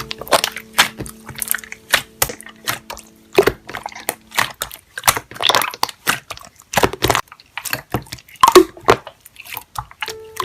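Slime being squeezed, poked and stretched by hand, giving a rapid, irregular run of wet crackles, pops and squishes.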